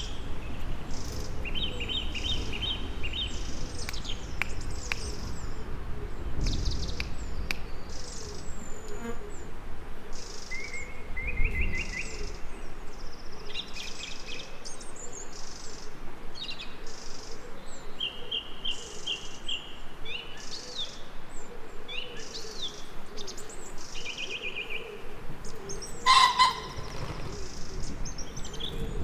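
Several songbirds singing: short trilled phrases mixed with a steady run of high chirps, over a low, even background rumble. One louder, sharper call comes near the end.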